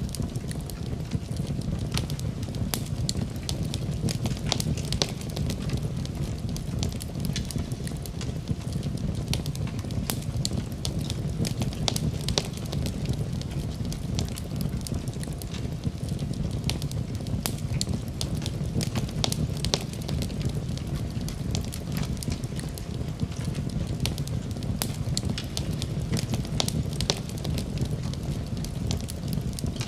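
Wood fire burning in a fireplace: a steady low rumble of flames with frequent sharp pops and crackles scattered throughout.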